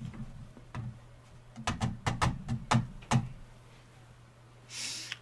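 A quick run of about seven sharp taps and knocks close to a sensitive microphone, bunched together in the middle, over a low steady hum, then a short breath-like hiss near the end.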